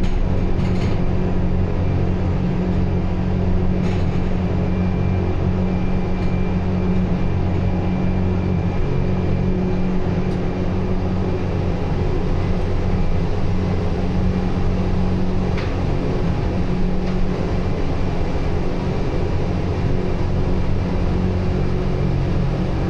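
Train running steadily: a constant low hum and rumble, with a few faint clicks.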